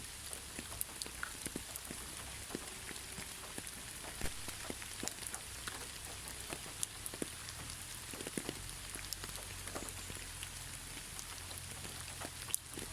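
Steady gentle rain with no thunder: an even hiss of rainfall with many separate drops ticking and pattering on a surface close by.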